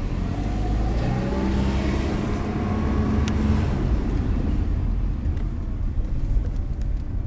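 Car engine accelerating, its pitch rising over the first few seconds, then running steadily under a low road rumble.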